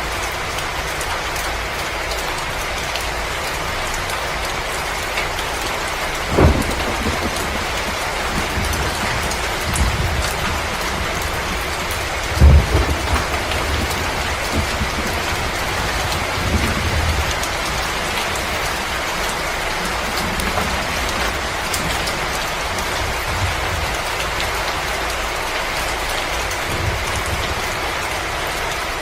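Steady dense hiss of heavy rain, with a few short low thumps like distant thunder, the strongest about six and twelve seconds in.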